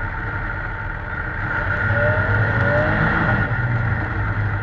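A steady engine running loudly, with a faint rising tone about two seconds in.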